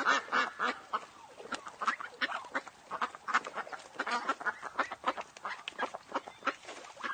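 A flock of waterfowl calling, with many short calls overlapping, several a second.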